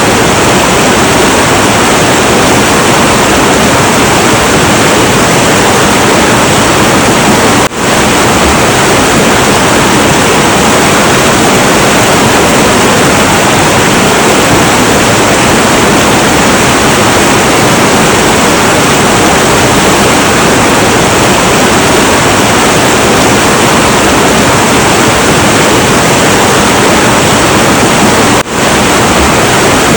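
Heavy, turbulent river water rushing in a steady, loud roar. It drops out for a split second twice, about 8 seconds in and near the end.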